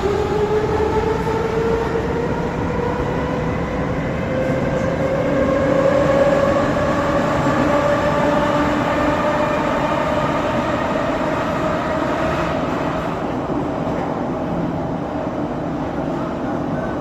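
81-717.5M metro train running between stations over a steady rumble of wheels on track, its traction drive whining in a tone that rises slowly in pitch as the train gathers speed. The whine fades about twelve seconds in while the rumble goes on.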